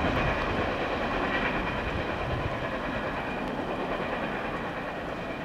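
Rolling wheels of a double-stack container freight train going by on the rails as its last car passes, the sound slowly fading as the train moves away.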